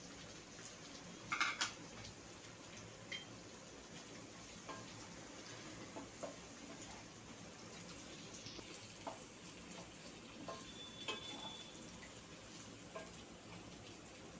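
Cubed carrots landing in a kadhai of onions frying in ghee, then a spatula stirring through them, with a low steady sizzle and scattered light taps and scrapes of the spatula on the pan. The loudest moment is a brief clatter about one and a half seconds in.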